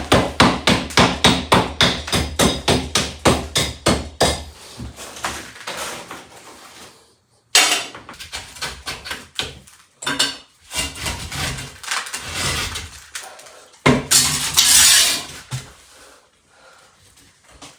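A fast, even run of sharp knocks, about four a second, for the first four seconds or so. Scattered knocks and clatter follow, with a short scraping rush near the end.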